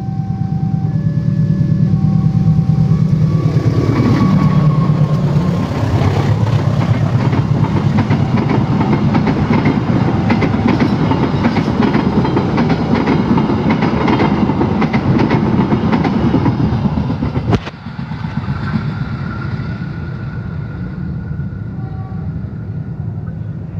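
A train passing, led by a CC201 diesel-electric locomotive. The engine note drops in pitch as it goes by about four seconds in, then comes the loud rolling of the carriages with wheels clacking over the rail joints, which falls away sharply near the end. A level-crossing alarm chimes in two alternating tones at the start.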